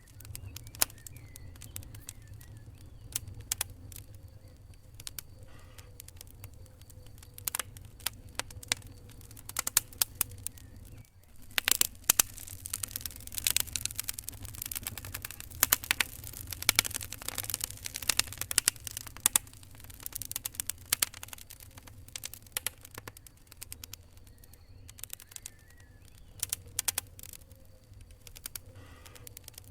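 Fire crackling: irregular sharp pops and snaps over a steady low rumble. After a brief lull about a third of the way in, the pops come thicker and louder for several seconds.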